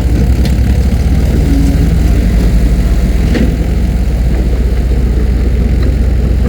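A heavy engine running steadily with a deep, even hum, with a single brief knock about halfway through.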